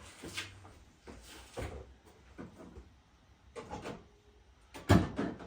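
Scattered knocks and rattles of hand tools and plastic parts being picked up and put down, with one louder knock near the end.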